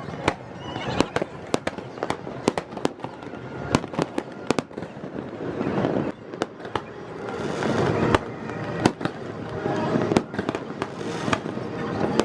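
Fireworks going off: a rapid, irregular series of sharp bangs and crackles, swelling into a denser rumbling crackle around the middle and again a couple of seconds before the end.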